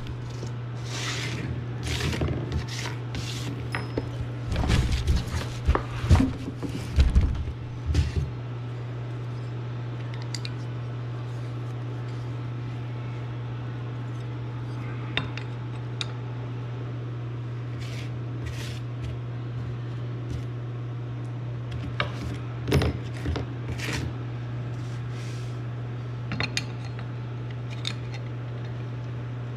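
Metal tools and parts clinking and knocking, in irregular flurries, over a steady low hum.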